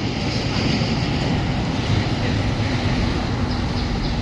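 Steady vehicle rumble with wind-like hiss, even throughout with no distinct knocks or clunks.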